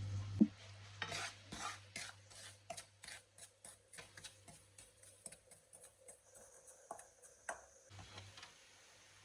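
Light kitchen-utensil taps and scrapes, a quick uneven run of short clicks about two to three a second, after a single low thump just under half a second in.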